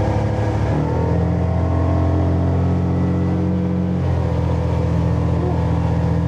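Small fishing boat's engine running under way, its note stepping up about a second in and easing down slightly about four seconds in.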